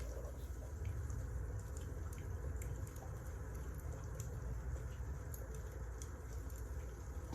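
Wood fire burning: a low, steady rumble of flames with scattered small crackles and pops at irregular intervals.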